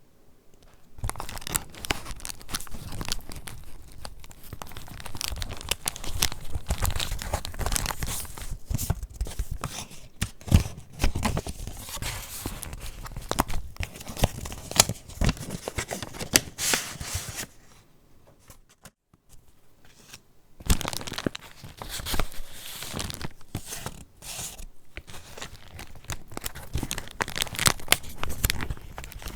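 Paper pages of a handmade junk journal being handled and turned: dense rustling and crinkling with sharp crackles, pausing for a couple of seconds a little past the middle before resuming.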